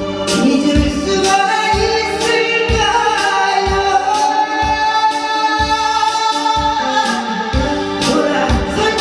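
A singer performing a song over amplified backing music with a steady drum beat, about two beats a second, holding long notes in the middle.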